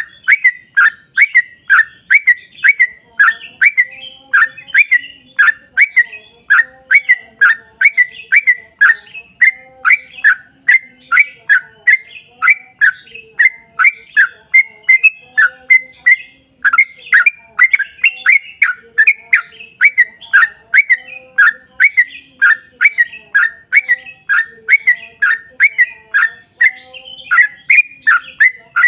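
Yellow-vented bulbul (trucukan) singing a long, unbroken run of short, loud, repeated notes, about two a second, each a quick falling chip, used as a lure call to set other trucukan singing.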